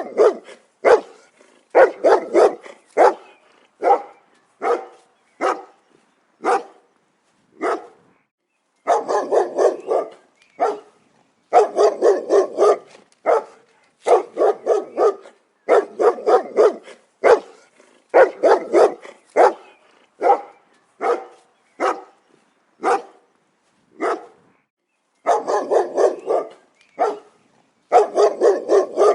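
A dog barking repeatedly, with single barks and quick runs of several barks, and short pauses between them.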